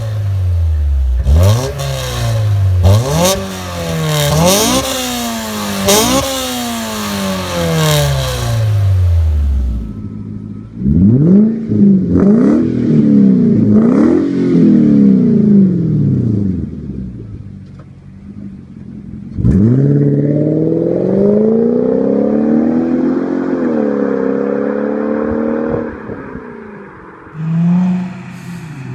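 Car engines revving hard through their exhausts in three successive clips, the pitch climbing and dropping with each rev. The first clip has a harsh crackling hiss over the revs, and it cuts to a different car about ten seconds in and again about halfway through.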